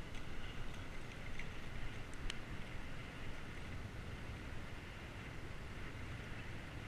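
Steady wind and riding noise of a bicycle on the move, picked up by a GoPro: a low rumble with a hiss over it. A few faint short ticks come in the first two and a half seconds.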